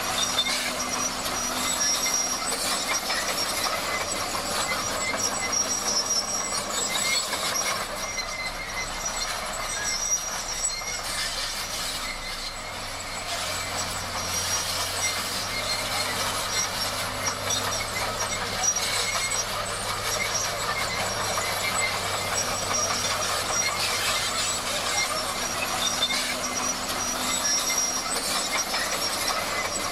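Bulldozer working, its steel crawler tracks clanking and squealing over the engine's steady low hum.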